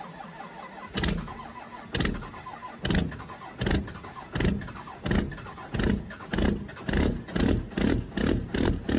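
Motorbike engine giving a series of loud pulses that come faster and faster, from about one a second to about two a second.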